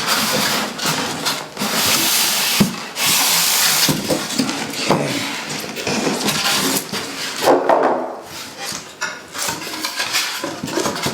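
Packaging rustling and scraping, with irregular knocks and scrapes of the telescope tripod being handled as it comes out of its box; the longest rustle runs from about two to four seconds in.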